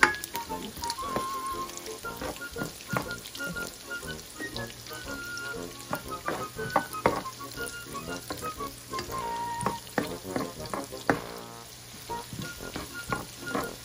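Pork belly, onion and garlic sizzling in hot oil in a nonstick frying pan, with repeated scrapes and knocks of a spoon stirring them.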